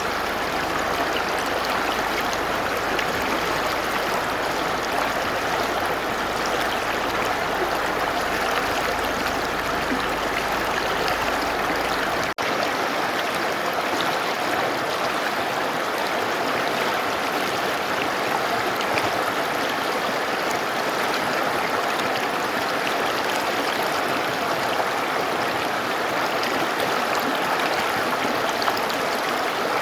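Mountain river rushing over rocks: a steady, dense wash of water noise, with a momentary dropout about twelve seconds in.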